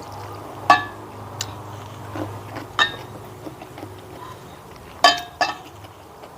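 Cutlery clinking against a dish, four sharp clinks with a brief ring, the last two close together near the end, over a faint low hum.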